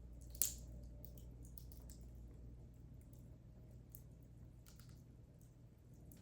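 Wood fire in a fireplace crackling: scattered small pops and ticks, with one sharp, louder pop about half a second in, over a low steady hum.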